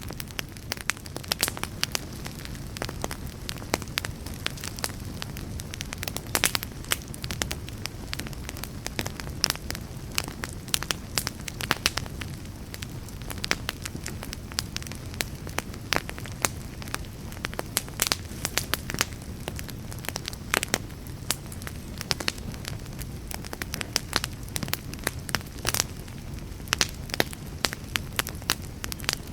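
Campfire burning with a steady low rumble and frequent irregular crackles and pops of the wood.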